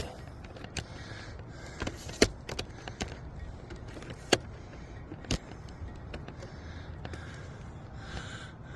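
A tripod being set up: a scattered series of sharp clicks and knocks, several seconds apart, over a steady low background rumble.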